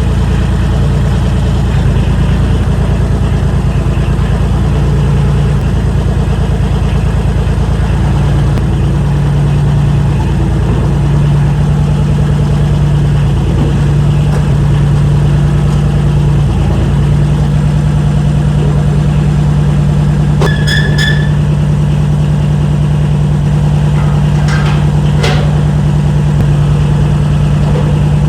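A loud, steady mechanical drone with a strong low hum that swells and eases slightly, like an engine or machine running. A few sharp clicks sound about twenty seconds in and again about twenty-five seconds in.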